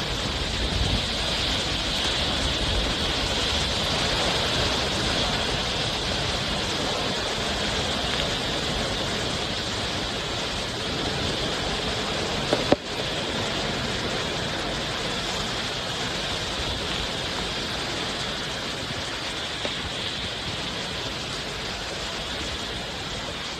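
Strong typhoon wind blowing steadily, a dense rushing noise that eases slightly toward the end, with one brief sharp click about halfway through.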